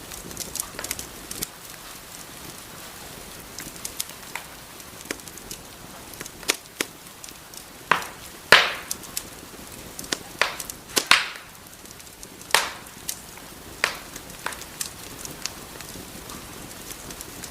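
Wood fire crackling in a fireplace: irregular sharp pops and snaps over a soft steady hiss, with a few louder snaps around the middle.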